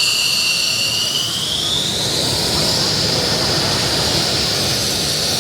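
An F-16 fighter's single jet engine running close by, a steady rush under a high turbine whine that rises in pitch a second or two in and then holds.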